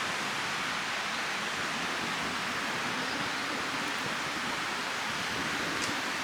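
Steady, even outdoor hiss with no distinct events, apart from one faint click near the end.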